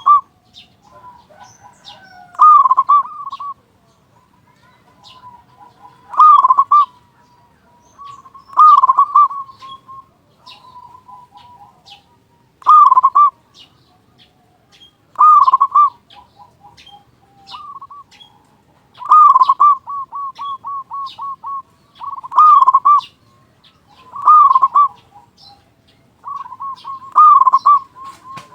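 Zebra dove (perkutut) singing its cooing song over and over: loud phrases every two to three seconds, one of them trailing into a quick run of about ten short repeated notes. Faint high chirps of other small birds sound behind it.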